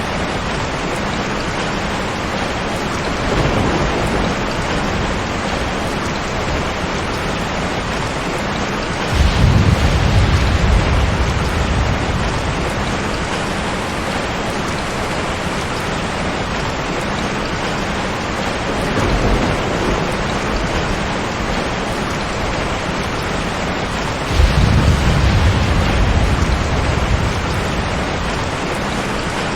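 Steady rain with rolls of thunder. Two low thunder rumbles come in suddenly, one about a third of the way through and one near the end, each lasting a few seconds, with fainter rumbles between them.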